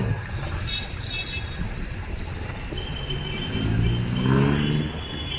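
Street traffic: a motor vehicle's engine rising in pitch as it accelerates past, loudest a little after four seconds in, over a steady low rumble of road noise.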